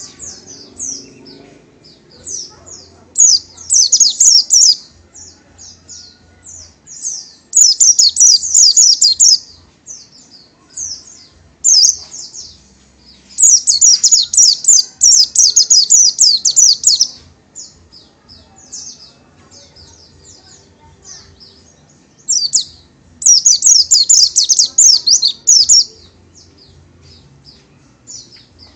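Oriental white-eye singing: loud bursts of rapid, high twittering, some lasting a few seconds, with quieter stretches of scattered soft notes between them.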